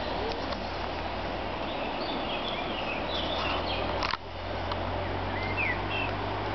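Songbirds chirping in short whistled notes over a steady outdoor hiss, with a single sharp knock about four seconds in.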